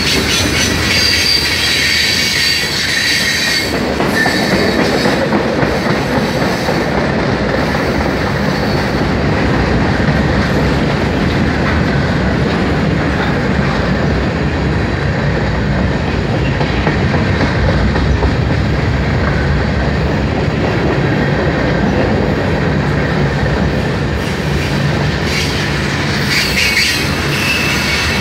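Freight cars of a long mixed manifest train, tank cars and covered hoppers, rolling past: a steady, loud clatter of steel wheels on the rails. A high-pitched wheel squeal rides on top for the first few seconds and again near the end.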